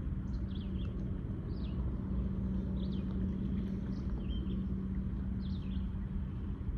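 Steady low industrial hum with a level drone, from the paper mill beside the river, under a bird giving short high chirps about once a second.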